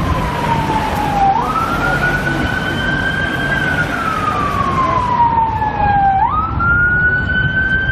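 Police car siren on a Metropolitan Police BMW X5 armed response vehicle sounding a slow wail: the pitch sinks gradually for a few seconds, then sweeps quickly back up, twice. Traffic noise runs underneath.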